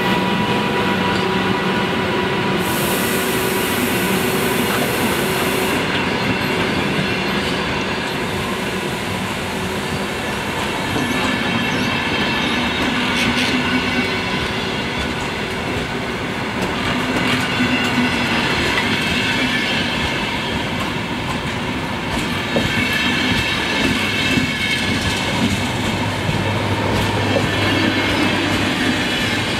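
Carriages of a VR night train rolling past close by at speed, a continuous rumble of wheels on the rails with clattering over the joints.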